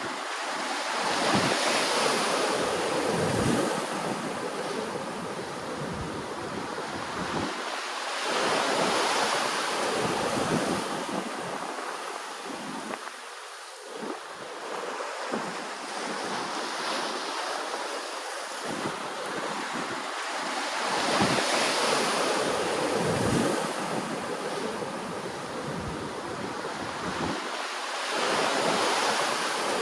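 Ocean waves washing in, the surf swelling and ebbing in slow surges every six or seven seconds.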